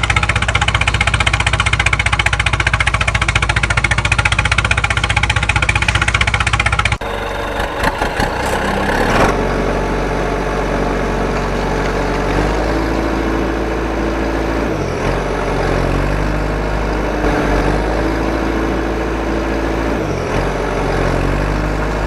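An engine running steadily with a fast, even pulse, then a sudden change about seven seconds in to a different engine sound that runs on with small shifts in pitch.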